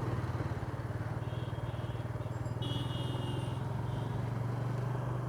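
Motorcycle engine running steadily at low revs with an even, regular pulse.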